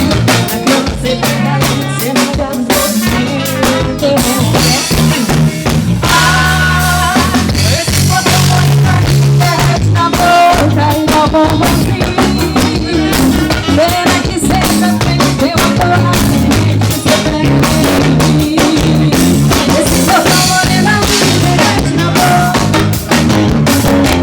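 Live band playing a song at a soundcheck: a drum kit with kick, snare and rimshots over a pulsing bass line, with melodic instruments above.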